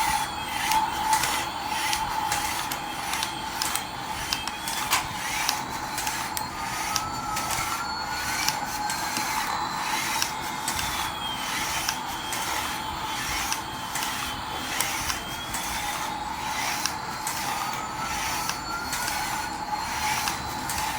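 Battery-powered toy vehicle running: a steady motor whine over gears clicking rapidly, with slow rising and falling electronic tones repeating every several seconds.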